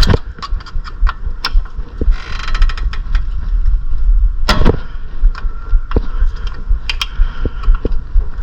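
Irregular metallic clicks, clanks and knocks of tools and parts being handled during work on a minivan's front brakes, with a short ringing clatter a couple of seconds in and a louder knock about halfway through.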